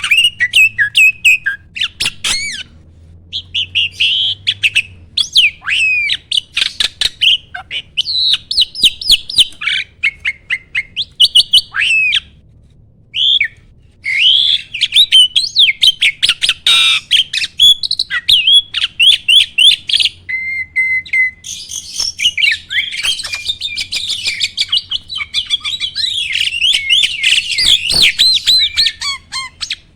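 A jalak (starling) singing a fast, varied song of chirps, whistles and harsh notes in rapid runs, broken by short pauses. A held whistle note comes a little after twenty seconds.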